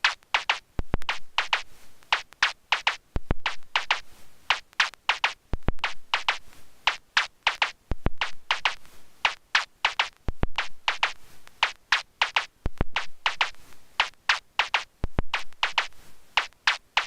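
Erica Synths Perkons HD-01 drum synthesizer playing a busy, uneven percussion pattern: several short noisy hat- and snare-like hits a second, with sparser deep kick hits underneath.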